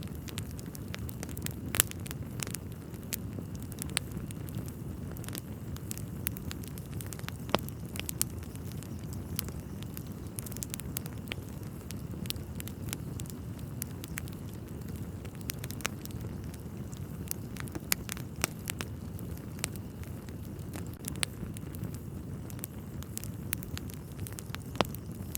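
Wood fire burning in a fireplace: a steady low rumble of flames with frequent irregular crackles and occasional louder pops from the logs.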